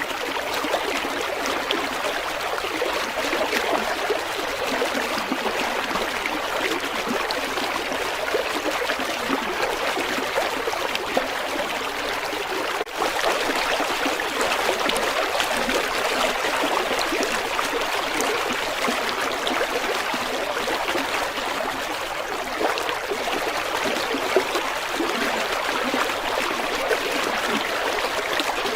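River water flowing in a steady, even rush, with a momentary drop in level about halfway through.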